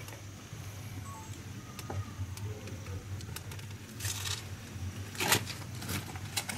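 Scattered knocks and scrapes of things being handled, the loudest about five seconds in, over a steady low hum.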